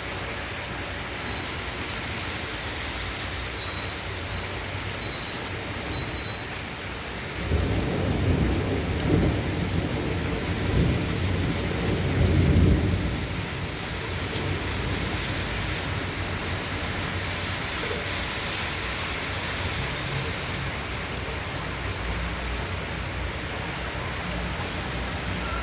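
Heavy downpour with a steady hiss of rain and a long roll of thunder. The thunder rumbles from about seven seconds in to about thirteen, loudest near its end.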